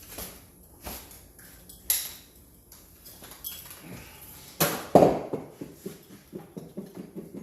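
Copper pipe and fittings being handled and fitted: scattered metal clinks and knocks, two sharp ones about five seconds in, then light rattling near the end.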